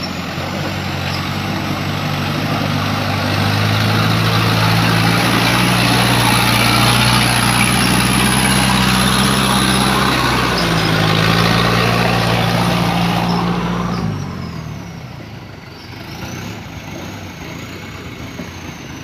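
Toyota Dyna light truck's engine pulling under load. It climbs over the first few seconds and runs steadily, with a short dip about ten seconds in. About fourteen seconds in it drops off suddenly to a much quieter sound.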